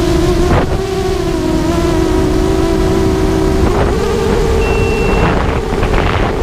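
ZMR250 FPV racing quadcopter's motors whining steadily, the pitch shifting a little with throttle and stepping up about four seconds in. Heavy wind buffets the microphone throughout, and a brief high beep sounds near the end.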